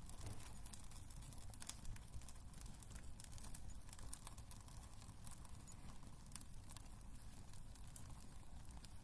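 Wood fire crackling in a fireplace: many small irregular pops and snaps over a low, steady rumble of the flames.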